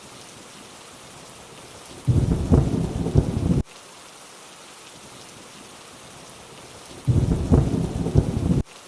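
Steady rainfall hiss with two short rolls of thunder, each about a second and a half long, starting about two seconds in and again about seven seconds in; both cut in and cut off abruptly.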